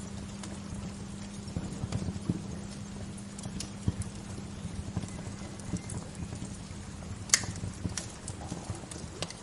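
Wood fire crackling, with irregular sharp pops and snaps. The loudest snap comes about seven seconds in. Under the pops there is a steady low hiss and rumble.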